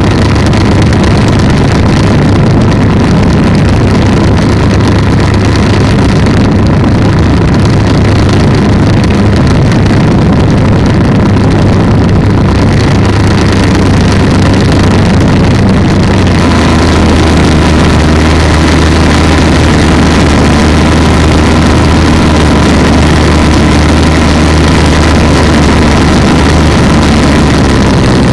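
Polini 190 two-stroke engine of an ultralight trike running steadily in flight. About sixteen seconds in its note drops to a lower pitch and holds there.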